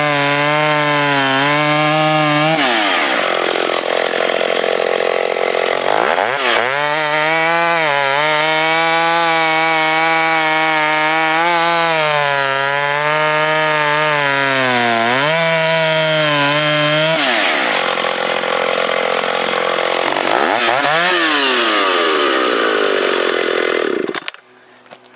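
Stihl 031 two-stroke chainsaw at full throttle, cutting through a log about 14 inches thick. The engine pitch sags and wavers as the chain bites, and rises sharply a few times when the chain runs freer. The sound stops suddenly near the end.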